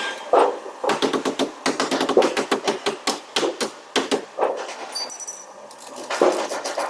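Hammer blows on truck sheet-metal panelwork, a fast irregular run of strikes. There is a short lull partway through with a brief high metallic ring, then the hammering resumes.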